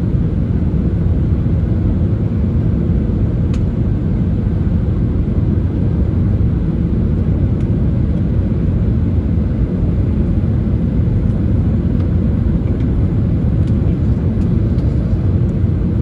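Steady low rumble of an Airbus A319 heard inside the passenger cabin: engine and airflow noise, even throughout, with a few faint ticks.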